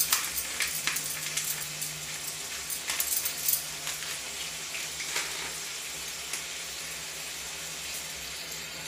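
Onions, ginger-garlic paste and spice powders frying in mustard oil in a kadhai: a steady sizzle. A few clicks and scrapes of the metal spatula against the pan come in the first three or four seconds.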